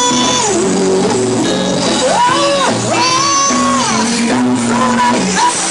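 Live gospel music: a singer holding long, sliding notes over band accompaniment.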